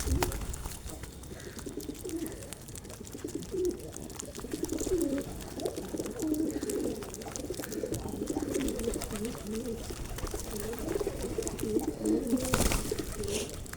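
A flock of birds gathered for food, calling continuously with many overlapping low-pitched calls. A brief rustling noise comes near the end.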